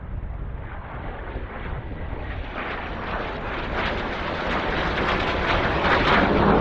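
Jet Provost trainer's turbojet approaching in flight. The jet noise grows steadily louder and brighter as the aircraft closes in.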